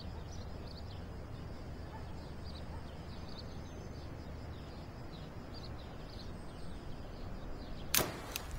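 Outdoor ambience: a steady low background rumble with faint, scattered bird chirps. A sharp click comes near the end, followed shortly by a second, fainter one.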